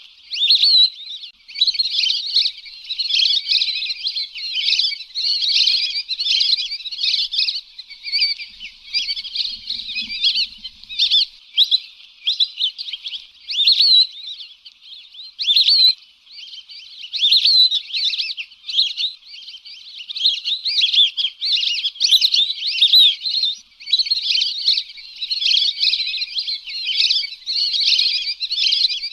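Lesser whistling ducks (Dendrocygna javanica) calling: rapid, high whistled notes repeated almost continuously, with a few short breaks.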